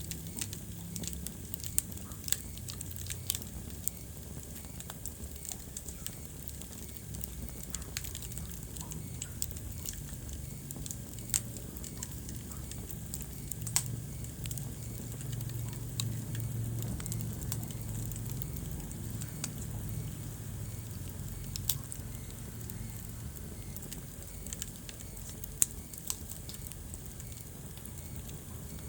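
Wood fire crackling in a fireplace: frequent irregular sharp pops and snaps, a few noticeably louder, over a steady low rumble of the flames.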